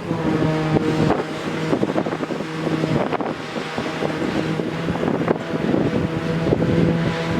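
An engine running steadily, a constant low hum with a clear pitch, over wind noise on the microphone and scattered knocks.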